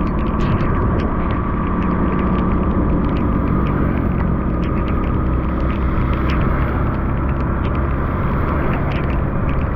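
Motor vehicle running on the road with a steady low rumble, a faint steady whine, and scattered small ticks.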